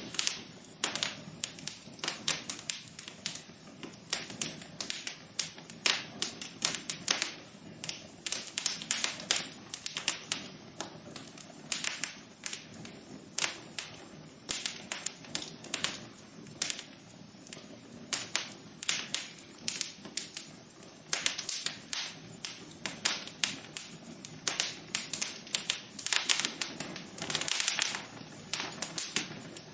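Wood fire crackling in a fireplace: irregular sharp pops and snaps, several a second, over a steady low rush of burning, with bursts of denser crackling here and there.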